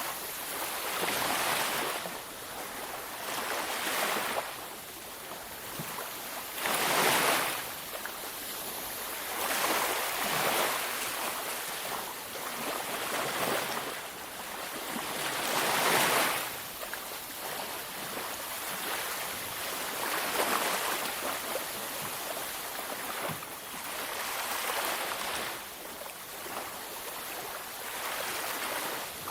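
Ocean waves breaking on a beach, surges of surf every few seconds, with the largest breakers about a quarter and about halfway through.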